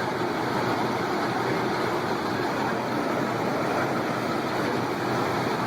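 Steady motor-vehicle engine and road noise: an even, unchanging rush with no sudden sounds.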